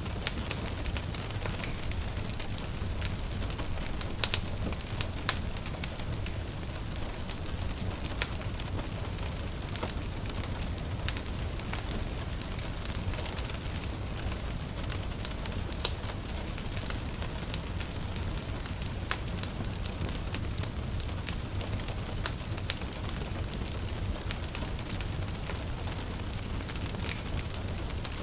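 Wood fire crackling, with frequent irregular sharp pops and snaps over a steady low rumble, and gentle rain falling with it.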